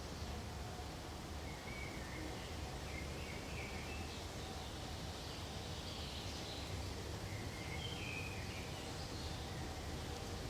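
Small birds chirping in short, high twittering phrases, about one and a half seconds in and again from about six to nine seconds, over a steady low background rumble and hiss.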